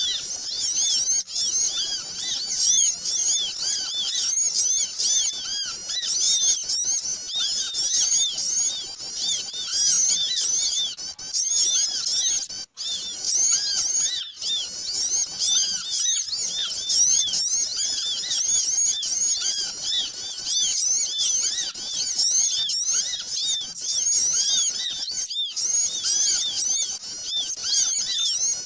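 A dense, noisy chorus of many small birds chirping rapidly, their short high-pitched notes overlapping without pause. This is a bird-lure (pikat) call, played to draw small birds in.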